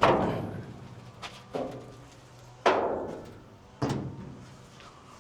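Three loud metallic bangs, each ringing out for about a second, with two lighter knocks between them: sheet-metal car body panels being struck or shut.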